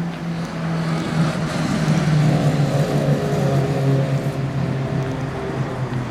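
A vehicle engine running steadily, growing louder about a second in and easing off near the end.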